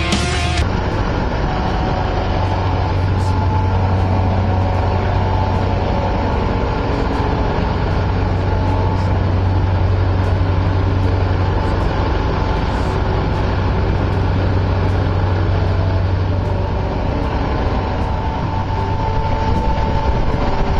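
Steady low drone of a motorboat's engine running, even in level throughout.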